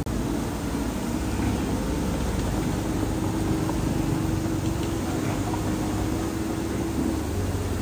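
Heavy diesel earthmoving machinery running steadily, a low rumble with a constant mid-pitched drone.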